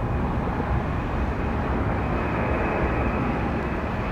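Jet airliner engines running, a steady rush of noise with a faint high whine.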